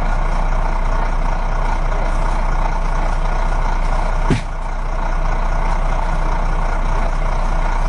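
Sound effect of a heavy vehicle's diesel engine running steadily with a deep hum, played as the toy JCB backhoe loader drives. There is a short click a little past halfway through.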